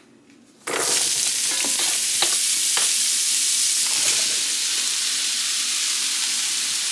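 Food frying in hot sesame oil in a pan: a loud, steady sizzle starts abruptly less than a second in, with a few light utensil clicks as it is stirred.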